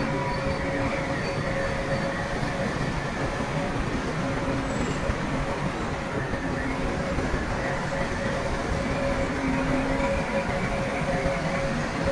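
Heavy diesel earthmoving machinery running steadily: a dense rumble with a steady whine over it.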